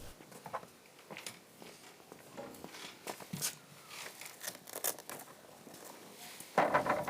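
Scattered short clicks, rustles and scrapes of vegetables being handled and cut, with a louder, longer scraping crunch near the end.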